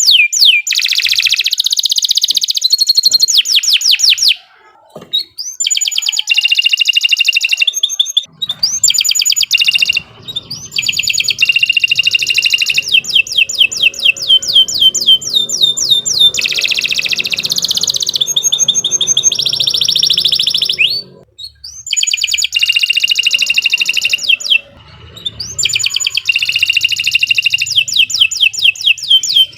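Domestic canary singing a long song of fast, rolling trills and repeated chirping notes, broken by a few short pauses, about 4 to 5 seconds in and again around 21 seconds.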